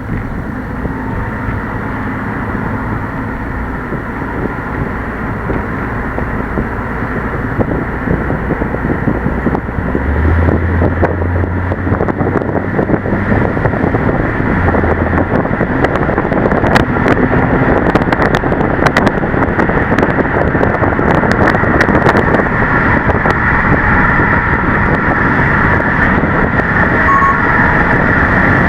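Subaru WRX S4 with its CVT and turbocharged flat-four, driving with engine, intake and exhaust sound mixed with road and wind noise. It grows louder about ten seconds in, with a low drone for a few seconds, and a scatter of sharp ticks follows in the middle.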